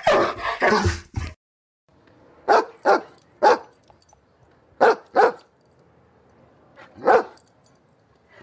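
Dogs barking: dense, overlapping barking for the first second cuts off suddenly. After a short silence, single sharp barks come in spaced groups: three, then two, then one.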